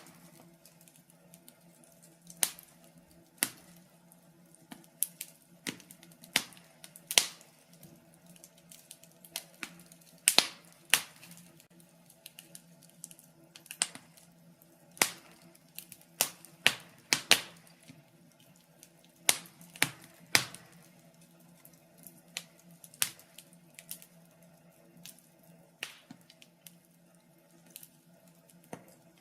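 Burning wood logs crackling in a fireplace: irregular sharp pops and snaps, a few to a second, some much louder than others, over a faint steady hum.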